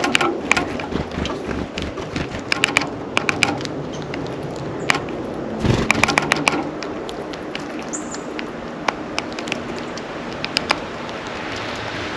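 Sharp, irregular taps and clicks in quick clusters from birds pecking and cracking seed on the feeder close to the microphone, with one short, high bird chip about 8 seconds in, over a steady low background hum.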